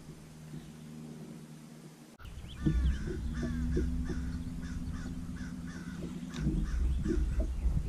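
A bird calling over and over, short falling calls about twice a second, starting a couple of seconds in, over a low rumble.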